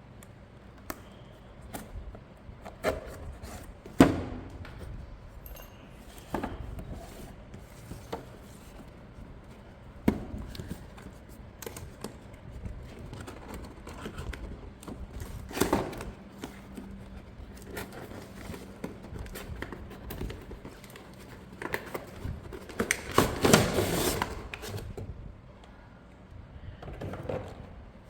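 Toy packaging and plastic parts being handled during an unboxing: scattered clicks and knocks, the sharpest about four and ten seconds in, with a longer stretch of rustling and clattering near the end.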